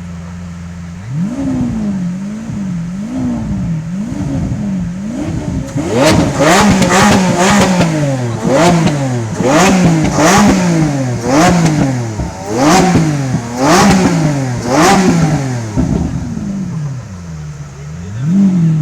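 Lamborghini Aventador's V12 idling, then revved in quick blips about once a second, each rev rising and falling back. The middle stretch is louder, with sharp cracks from the exhaust on the revs.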